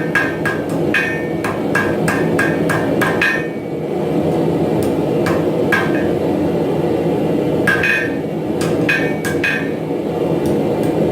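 Hammer blows on metal on an anvil, each strike ringing briefly at the same pitch. The blows come in quick runs with short pauses.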